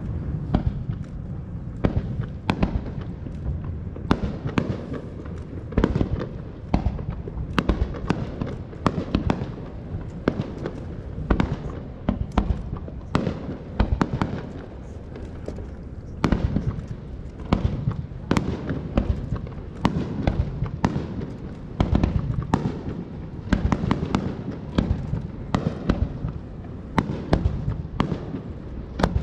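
Aerial fireworks bursting in quick succession: many sharp bangs and crackles, several a second, over a steady low rumble.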